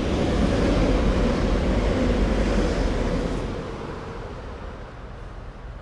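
A train passing on the adjacent main line: a loud rushing rumble that peaks over the first three seconds or so, then dies away as it recedes.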